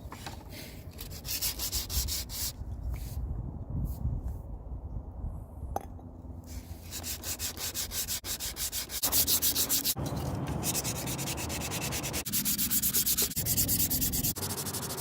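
Sandpaper rubbed by hand back and forth over an old hatchet in quick repeated strokes. It is patchy with a lull in the first half, then faster and louder in the second half.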